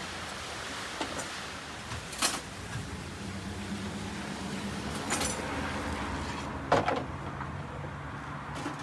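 A few knocks and clunks, the loudest about seven seconds in, over a steady low hum.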